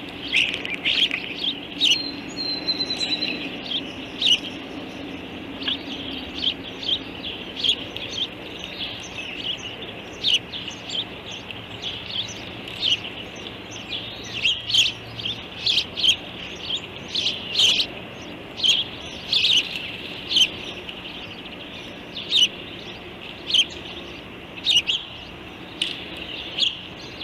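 A bird repeating short, sharp chirping calls, about one to two a second, over a steady high hiss.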